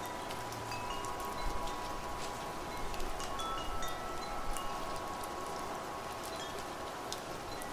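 Wind chimes ringing: several metal tones struck at random moments, each ringing on and overlapping the others. Behind them, a steady hiss of rain with scattered drop ticks.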